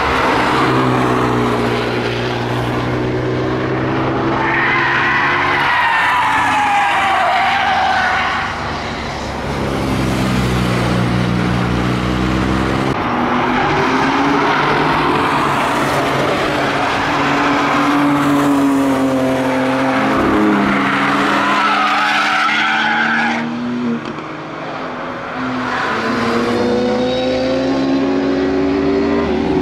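Performance cars passing at speed one after another, engines revving and the pitch rising and falling as each goes through the corner. Near the end a sport motorbike's engine comes through.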